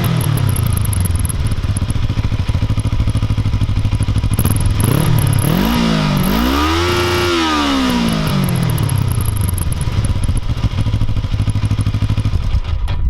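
Kawasaki ER-5's 500 cc parallel-twin engine, breathing through its stock exhaust, idling, then given two quick throttle blips about halfway through and a longer rev that is held briefly before falling back to a steady idle.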